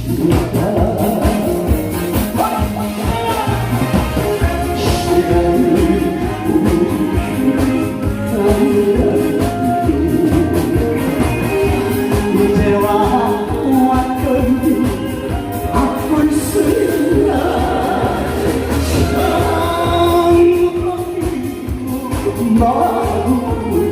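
A singer performing a song over loud amplified backing music with a steady beat.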